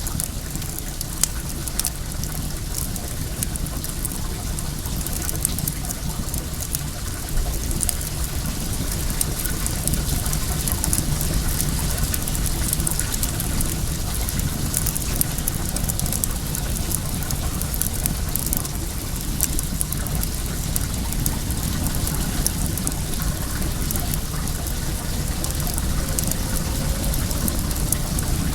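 Wood fire crackling with many small sharp pops, over the steady rush of flowing well water.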